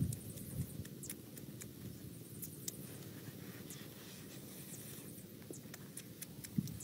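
Close-up eating sounds of a man biting and chewing a roasted frog: scattered small wet clicks and mouth smacks.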